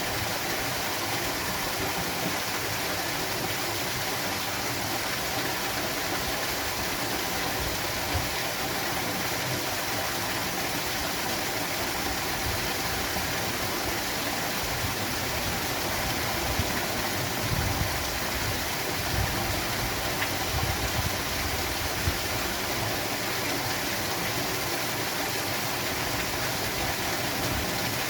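Waterfall: a steady, even rush of falling water, with a few low bumps about two-thirds of the way through.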